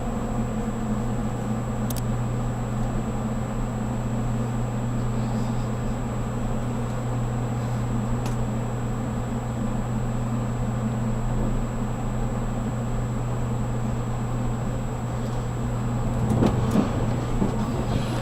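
Cabin noise inside a JR Kyushu 783 series electric train on the move: a steady low hum with a few faint clicks. Near the end it grows louder, with a rumble and several knocks from the wheels and track.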